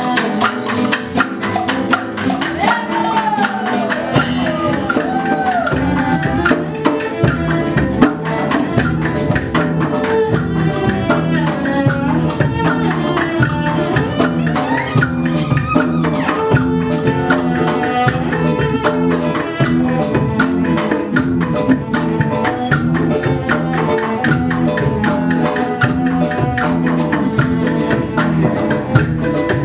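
Live acoustic band music: hand percussion with rattles and shakers keeping a steady rhythm over cello and acoustic guitar.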